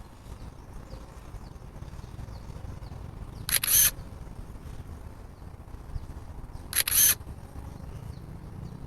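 Two short camera-shutter click sounds about three seconds apart, played by the drone controller's flight app as the mapping drone takes each photo, over a low steady rumble.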